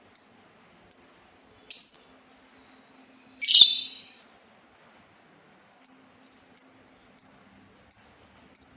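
Songbird known to bird keepers as the labet Sultan calling: a series of about nine short, high chirps, four in quick succession, one louder and fuller call near the middle, then a faster run of five near the end.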